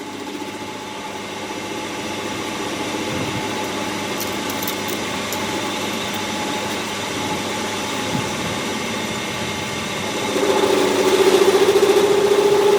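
A machine running steadily with a constant hum, growing louder with a pulsing buzz about ten seconds in.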